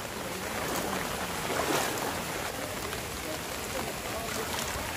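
Steady hiss of heavy rain falling on a flooded road, with the wash and splash of floodwater. It swells briefly just under two seconds in.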